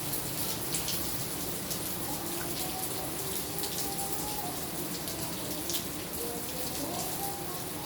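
Steady rain falling, a constant wash of water with scattered drips.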